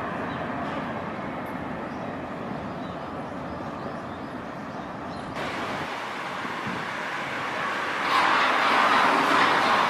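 Train running, a steady noisy rumble that changes abruptly about five seconds in, then grows louder and brighter from about eight seconds in.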